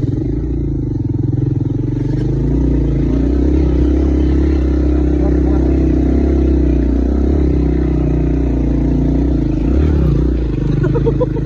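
Motorcycle engine running steadily while being ridden over a rough, potholed track.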